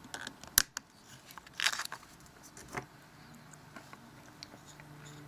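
Small clicks and a brief scrape of plastic phone parts being handled during disassembly, with a sharp click about half a second in and a short rasping scrape near two seconds.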